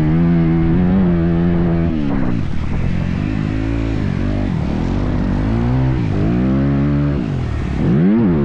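Motocross bike engine held at high revs, then revving up and down over and over as the throttle is worked, with sharp quick rises and drops near the end.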